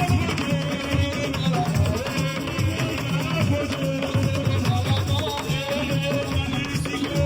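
Live Assiko band music: melodic note lines over a dense, steady drum and percussion rhythm.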